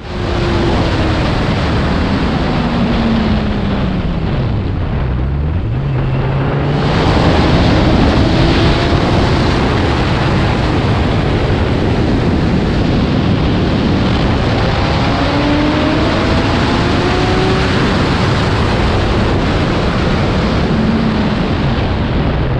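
Superbike engine under heavy wind noise on the rushing microphone. The engine's pitch falls over the first few seconds as the bike slows, then the wind gets louder about seven seconds in as it speeds up again. The engine pitch rises and falls once more further on.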